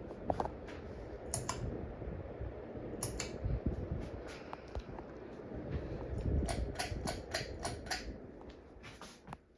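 Harbor Breeze Mayfield ceiling fan running with a low rumble, with scattered sharp clicks and a quick run of them past the middle. The rumble dies away near the end.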